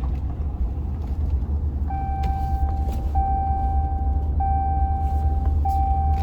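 Truck cabin with a steady low engine and road rumble; from about two seconds in a dashboard warning chime sounds as a run of long beeps, one about every second and a quarter.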